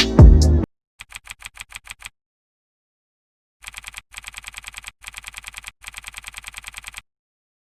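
Computer keyboard typing: a short run of keystrokes, then after a pause longer runs of rapid, even key clicks at about eight a second, with dead silence between the runs.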